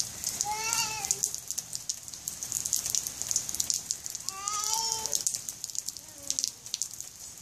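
Steady rain pattering and dripping, with many fine drip clicks. Over it a toddler gives two short, high-pitched vocal sounds, about half a second in and again about four and a half seconds in.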